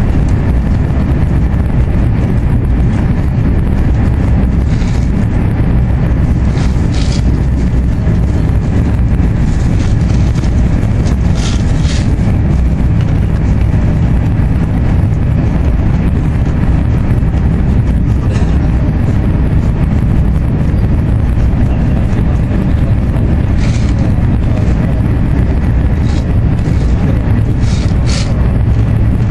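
Steady low rumble and rush of an AVE high-speed train running at speed, heard from inside the passenger cabin, with brief hissing swishes now and then.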